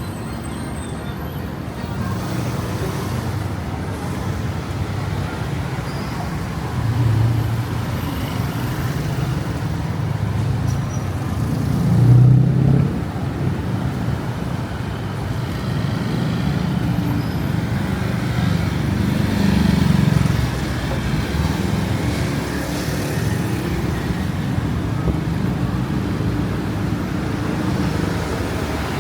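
Busy city road traffic: a steady mix of motor vehicle engines and tyre noise, with vehicles passing louder about 7, 12 and 20 seconds in.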